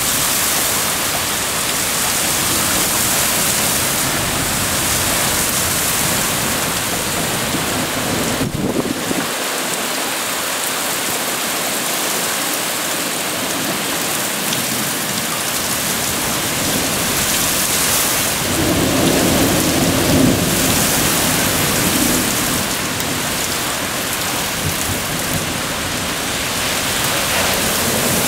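Severe thunderstorm: heavy wind-driven rain pouring down in a steady rushing hiss, swelling louder about two-thirds of the way through.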